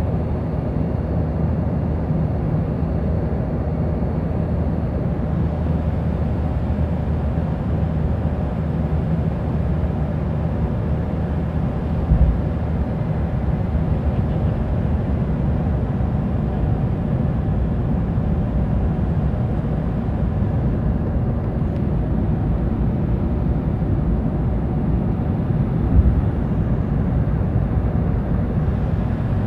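Steady cabin noise inside an Embraer 175 regional jet in flight, the engines and airflow making an even low rumble. Two brief low thumps sound, about 12 seconds in and again near the end.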